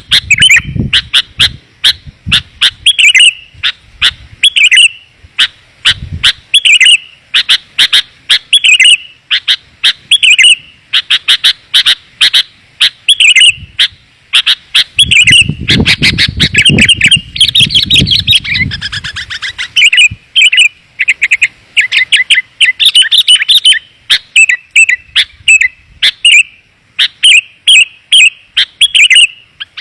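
Sooty-headed bulbul (kutilang) lure call: bright chirping phrases repeated quickly and densely, one after another, dense and clear, as played to attract wild bulbuls.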